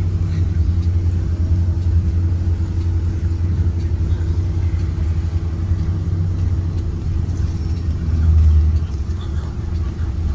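A 2023 Blue Bird Vision school bus running, with a steady low engine drone that swells briefly near the end.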